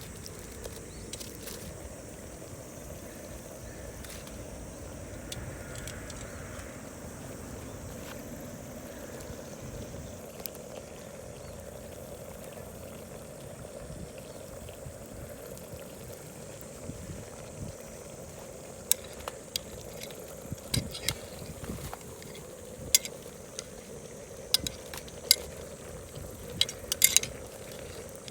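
Curry sizzling as it cooks over a wood fire. From about two-thirds of the way in come a series of sharp clicks and clinks, like a utensil knocking against the pot as it is stirred.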